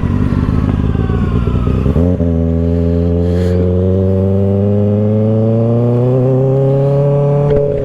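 2024 Kawasaki Ninja ZX-6R 636 inline-four engine through an M4 aftermarket exhaust, running at low revs. About two seconds in the throttle opens and the engine pulls steadily, revs climbing slowly.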